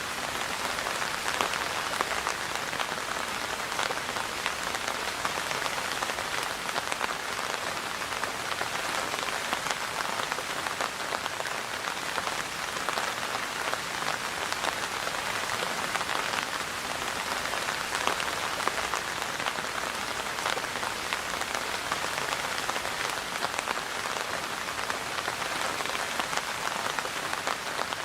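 Steady rain falling, a dense even patter of many drops landing on a surface.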